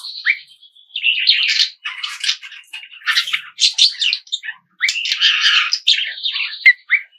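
Small birds chirping and twittering in quick overlapping bursts, several times with short pauses between.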